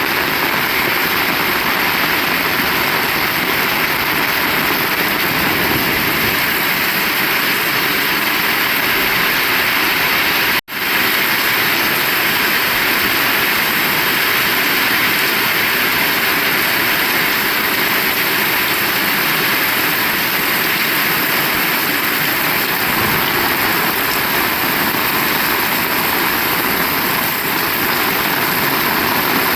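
Heavy rain falling steadily, a dense even hiss. The sound cuts out for an instant about ten seconds in.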